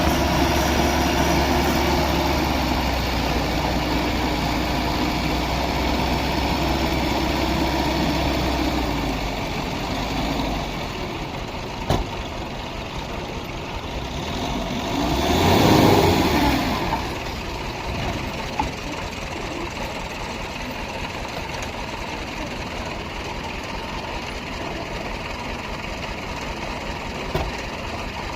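Heavy-machinery diesel engine running, with a low steady hum that drops away about a third of the way in. About halfway through a louder swell rises and falls. A few sharp knocks sound here and there.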